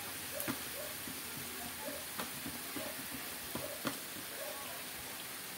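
Food sizzling in pans on a stove: a steady soft hiss with scattered small crackles and pops.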